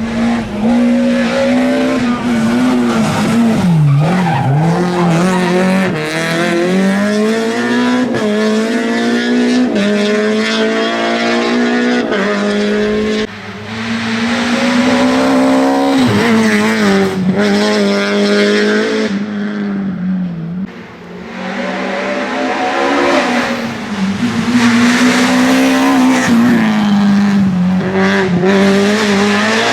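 Peugeot 306 A7-class rally car's engine heard onboard, revving hard and loud, its pitch climbing and falling again and again as the driver shifts gears and lifts off between corners.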